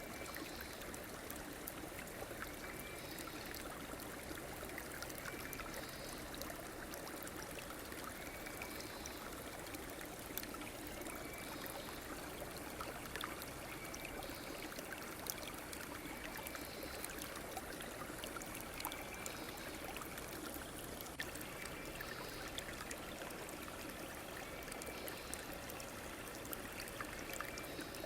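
River water flowing and trickling steadily. A short, faint call repeats about every two and a half seconds.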